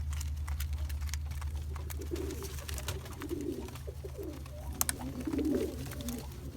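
Homing pigeon cock birds cooing, several low warbling coos one after another, with scattered sharp clicks and a steady low hum underneath.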